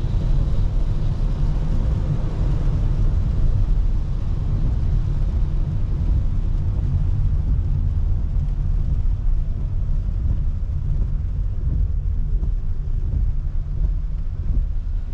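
Steady low rumble of a car driving: tyre and road noise on a rain-wet road, with a faint hiss of spray and rain above it.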